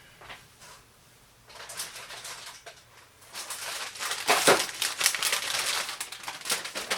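Handling noise: rustling and crinkling with many small clicks and knocks, starting about a second and a half in and loudest around the middle.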